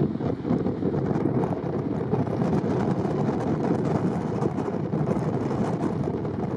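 Gullfoss waterfall: the steady roar of a large volume of falling and churning water, unchanging throughout.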